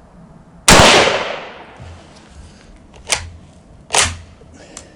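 Yugoslavian M48 Mauser rifle firing a single 8mm Mauser round: one loud shot less than a second in, with a tail that dies away over about a second. Two shorter sharp clacks follow, about three and four seconds in.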